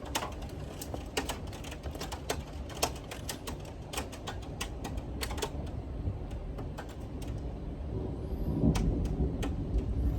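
Severe thunderstorm: irregular sharp ticks of wind-driven rain striking the house over a steady low rush of wind, with a deeper rumble swelling near the end.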